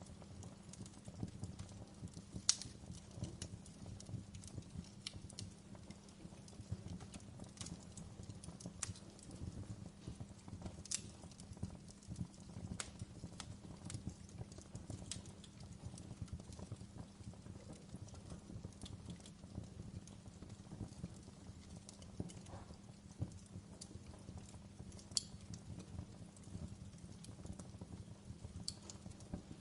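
Wood fire burning in a fireplace: a low steady rumble of the flames with irregular crackles and sharp pops, a few louder ones scattered through.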